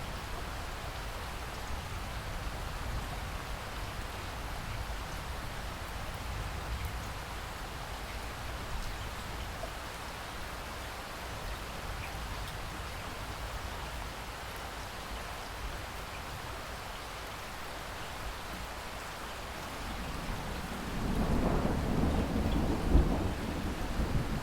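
Steady rain falling in a rainstorm, with a low rumble of thunder building about three-quarters of the way through and growing louder near the end.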